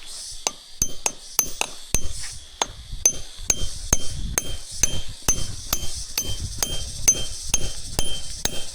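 A rapid series of sharp metallic knocks, about three to four a second, each with a short ringing tone, like a metal tool striking repeatedly.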